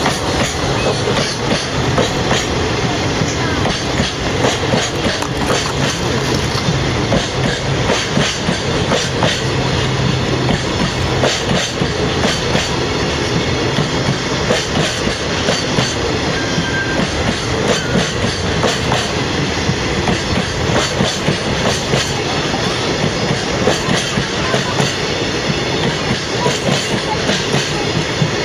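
Freight train rolling past, its wagon wheels clattering steadily over the rails with a continuous rumble and frequent clicks.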